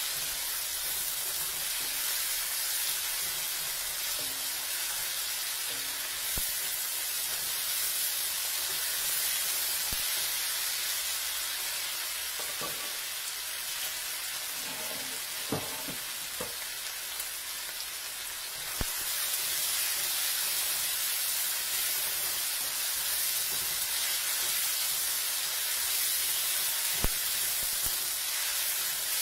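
Onion, garlic and tomato sizzling in hot oil in a stainless-steel wok, with a spatula stirring them and a few sharp taps of the spatula against the pan.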